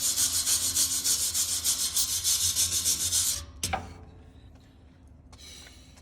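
Hand sanding or scrubbing of a rusty steel exhaust pipe with an abrasive, in quick even back-and-forth strokes that smooth the surface for crack sealer. The strokes stop about three and a half seconds in, followed by a brief knock and light handling.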